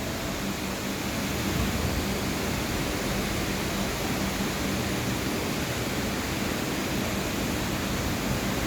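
Steady broad hiss of background noise with a faint low hum underneath, unchanging throughout.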